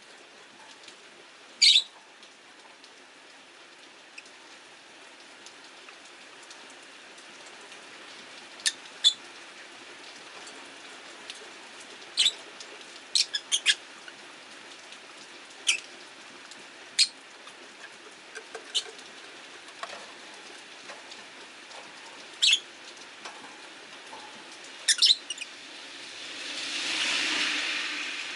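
Rosy-faced lovebirds giving short, sharp chirps, scattered singly and in quick clusters, over the steady patter of rain. Near the end a car passing on the wet street swells up and fades.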